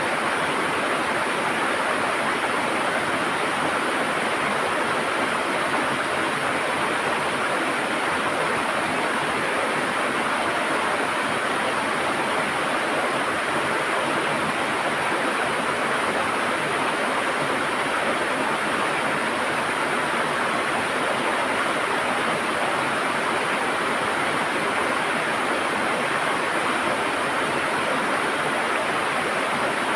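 River water gurgling and rushing steadily, a continuous even wash of running water.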